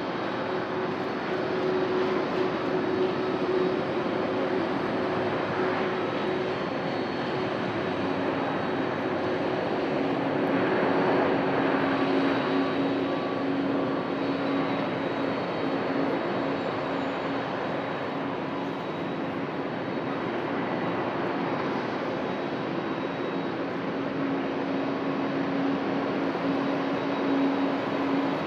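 Boeing 767-300ER jet airliner landing, its engines making a steady loud rush with a droning tone that drops lower about eight seconds in. The noise swells for a few seconds about ten seconds in.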